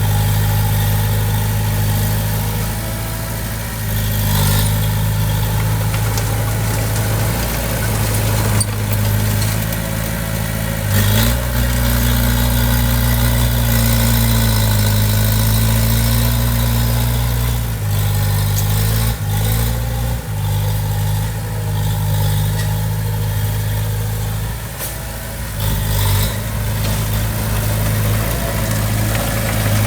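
Diesel engine of heavy construction equipment running steadily. It picks up under load about eleven seconds in and eases back some seconds later, with a few short clanks along the way.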